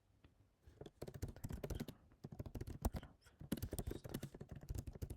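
Typing on a computer keyboard: quick, irregular key clicks in several runs with short pauses, beginning about a second in.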